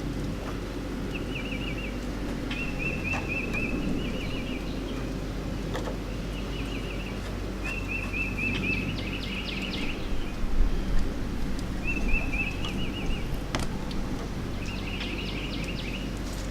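A bird chirping in short, rapid trills, repeated every second or two, over a steady low hum. A few sharp clicks and knocks, the loudest cluster about ten seconds in.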